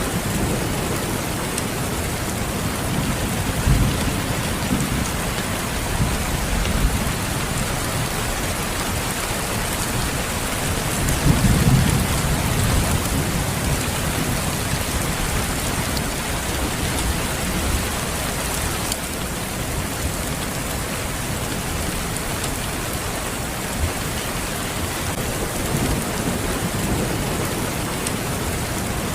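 Steady rain, with low rumbles of thunder swelling now and then, the strongest about eleven seconds in.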